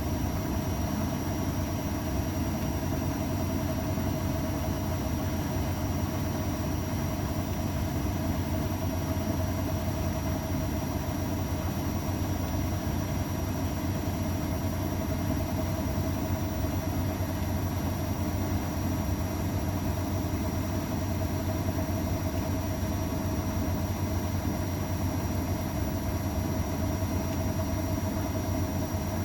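An AEG Öko-Lavamat 693 washing machine running with a steady hum and a constant whine, without a break, as its drum spins at an even speed.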